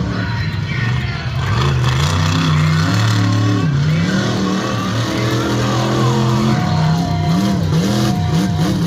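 A large vehicle engine running loud, its pitch rising and falling as it revs, most markedly in the second half.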